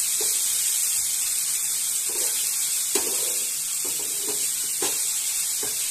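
Diced brinjal and poppy seeds frying in oil in a wok, with a steady sizzle. A wooden spatula scrapes and knocks against the pan several times as the mixture is stirred.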